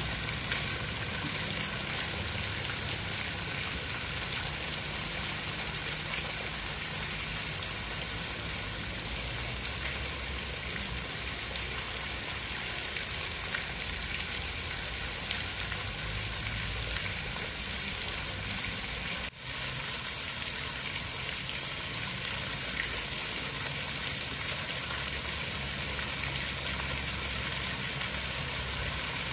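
Steady hiss of water, rain or rushing water, with a low rumble underneath; it dips out for an instant about nineteen seconds in.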